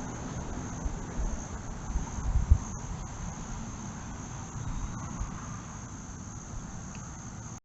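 Crickets chirping in a steady high-pitched trill, over an uneven low rumble; the sound cuts off abruptly near the end.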